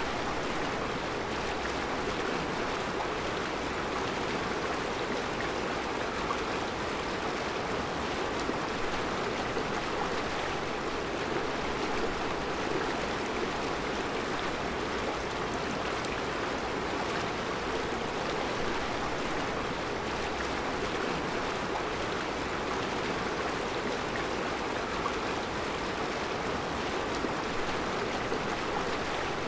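Mountain river flowing steadily over round rocks in a rocky bed, a constant rushing of water.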